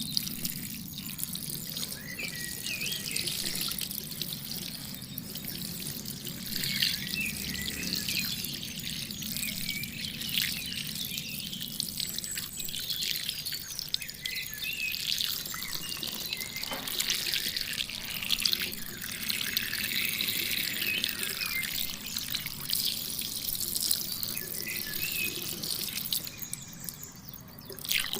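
Water spraying, splashing and dripping from a mini water pump's outlet, steady with scattered small splashes, dipping briefly near the end.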